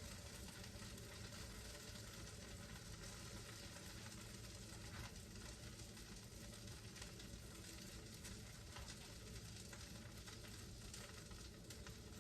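Pancake batter frying in butter in a pan, a faint, steady sizzle.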